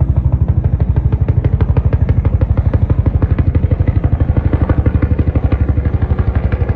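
Small engine running steadily at a fast, even putter of about a dozen beats a second.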